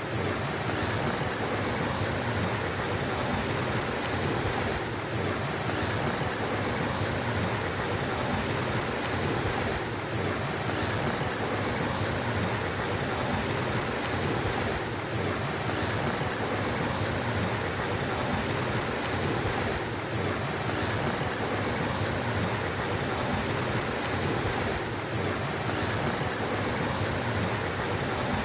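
Flowing stream water rushing steadily, with a slight dip in level about every five seconds.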